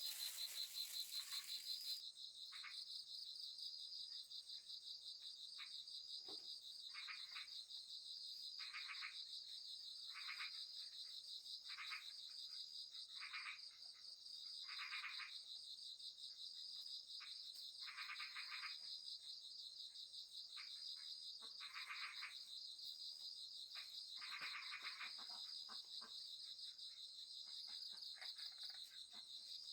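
Frogs calling after rain in short calls repeated every second or two, over a steady high-pitched insect trill.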